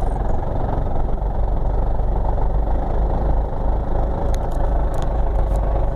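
1985 Ford Belina's engine running steadily while the car won't drive: the gearbox is broken and no longer turns the wheels. A few light clicks come through about four to five seconds in.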